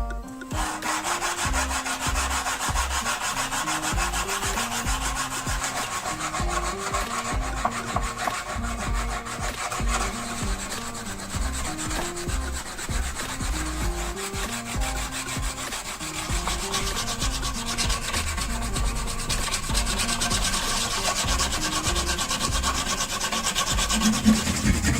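Continuous abrasive rubbing on wood in fast, even strokes, typical of sanding or rasping a wooden knife handle. Background music with a stepping bass line plays underneath.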